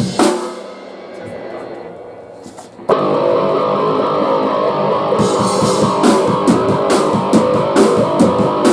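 A live rock band's amplified, distorted electric guitars and drum kit: a single hit rings out, then about three seconds in the band comes in loud with a heavy riff, drum hits landing roughly every half second to second.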